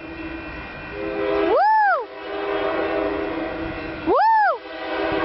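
A freight locomotive horn sounds a steady, held chord. Over it, a man shouts two rising-and-falling "woo" calls, about a second and a half in and again near the end.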